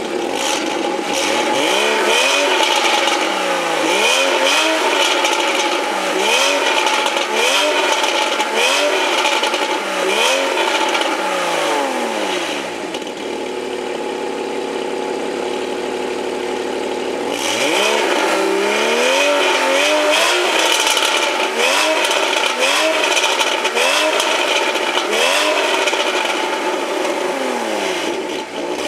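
Porsche Boxster 2.7-litre flat-six engine fitted with K&N air filters, heard at the exhaust tip being revved in repeated quick throttle blips, each rising and dropping back to idle about once every second or so. About halfway through it settles to a steady idle for around five seconds, then the blips start again.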